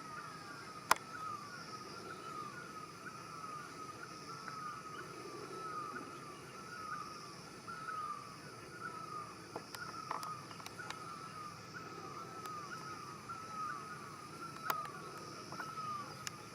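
A short falling chirp repeated steadily about twice a second, most likely a bird, over a faint outdoor ambience. A few sharp clicks break in, the loudest about a second in.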